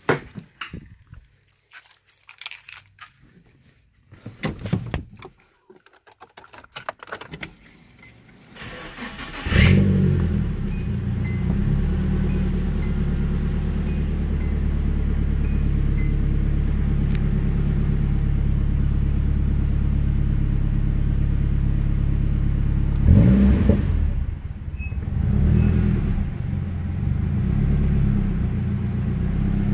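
A crash-damaged Nissan 240SX is started about a third of the way in and settles into a steady idle, with a brief rev about two-thirds through. Before the start there are only faint handling sounds and keys jangling.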